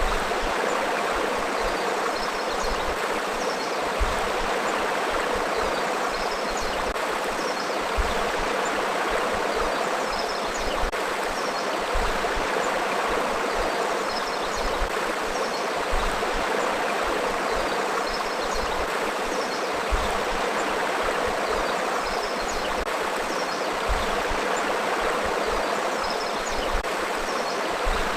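Forest river flowing: a steady, dense rush of water, with faint high chirps scattered throughout and a brief low thump about every four seconds.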